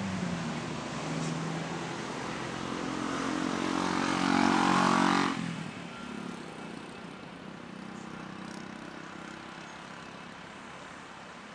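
Jet airliner engines running loud and growing louder for about five seconds. The sound then drops off abruptly to a quieter, steady engine rumble.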